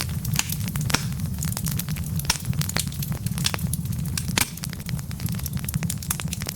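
Wood fire burning in a fireplace, with a low steady rumble of flame under irregular crackles and sharp pops from the logs, a few louder pops standing out.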